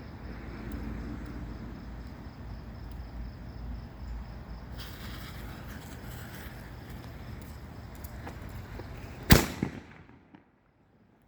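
Steady low outdoor rumble, then about nine seconds in a single sharp loud bang from a firework mortar, which dies away over about a second.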